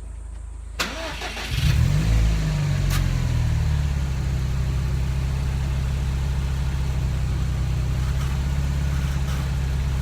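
Subaru WRX STI (VAB) flat-four engine being started: the starter cranks about a second in, the engine catches and flares briefly, then settles into a steady idle, with another click about three seconds in.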